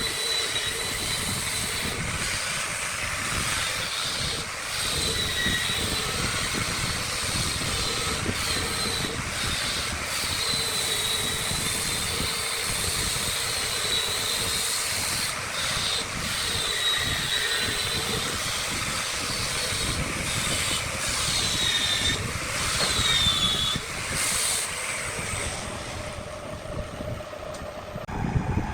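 Wood lathe running while a turning tool cuts the spinning wood: a steady rushing noise with a high squeal that comes and goes in short bending arcs every second or two.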